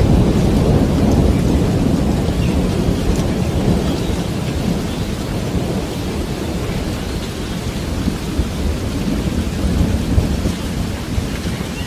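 Steady rain with a deep, continuous low rumble underneath that eases off gradually over the first half, and scattered drop ticks in the hiss above.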